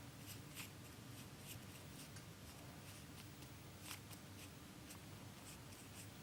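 Very quiet room with a low steady hum, over which come faint, irregular soft strokes and dabs of a Chinese ink brush on paper as bamboo is painted in.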